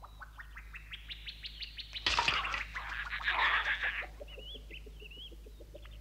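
Small birds chirping and twittering, with a louder, noisy burst of sound from about two to four seconds in.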